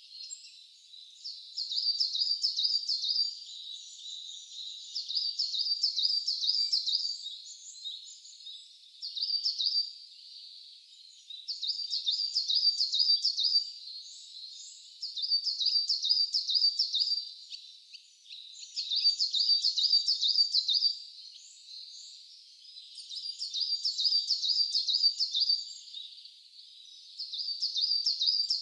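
A songbird singing the same short phrase over and over. Each phrase is a quick run of high, repeated notes, coming every three or four seconds.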